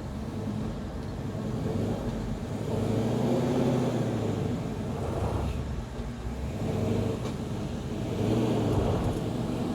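The 1966 Chevy C10's 383 stroker V8 running under light throttle as the truck creeps up onto a trailer, its engine note swelling and easing several times as the driver gives it gas.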